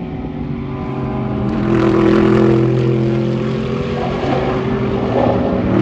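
Race car engines running at speed on the circuit. A steady, loud engine note swells about one and a half seconds in and holds, with another car's note coming up near the end.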